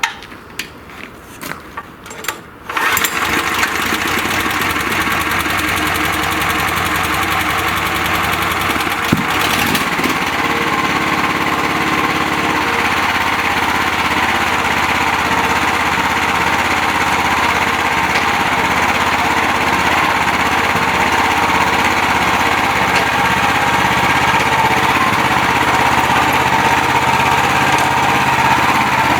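Single-cylinder GX450-type petrol engine on a walk-behind tractor starting: a few short clicks, then about three seconds in it catches and runs steadily, with a brief knock about nine seconds in.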